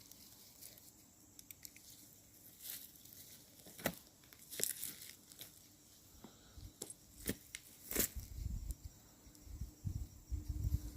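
Footsteps crunching through dry leaf litter and twigs on a woodland floor, as short irregular crackles about a second apart. A low rumble comes in near the end.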